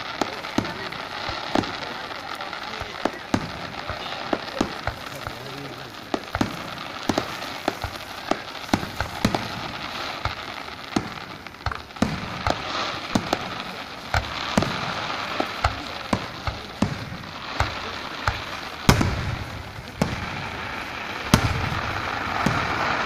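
Aerial fireworks shells bursting in quick succession, a string of sharp bangs and crackles, with two heavier booms near the end.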